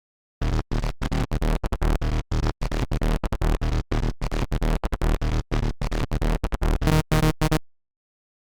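Serum software synthesizer playing a patch built from an image-derived wavetable, heard as a dense electronic tone with a strong deep bass. It comes in about half a second in, is chopped into short choppy stabs by many abrupt gaps, and cuts off suddenly about a second before the end.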